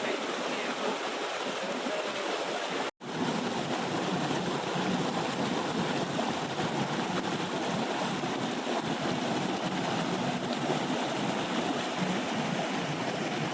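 Steady rush of water falling and running over the rocks of a small waterfall. The sound breaks off for an instant about three seconds in, then carries on unchanged.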